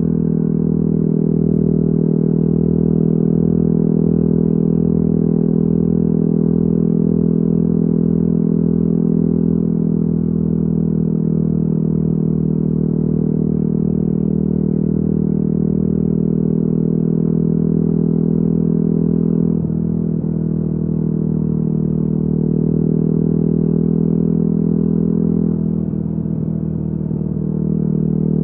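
Yamaha WR250R's single-cylinder 250 cc engine through an FMF exhaust, running steadily under way. The note dips briefly twice, about two-thirds of the way through and near the end.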